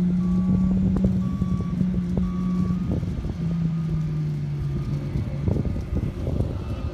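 Ferrari 458 Italia's V8 engine running at steady revs. It breaks off briefly about three seconds in, then comes back lower and keeps dropping in pitch as the car drives away.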